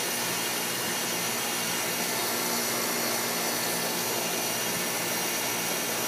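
Guardian central air conditioner's outdoor condensing unit running steadily: an even rush of air from the condenser fan with a steady low hum from the compressor.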